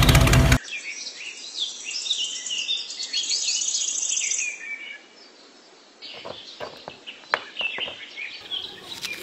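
Small birds chirping and calling, after a loud motor running stops abruptly under a second in. Near the end a few light clicks and taps join the chirps.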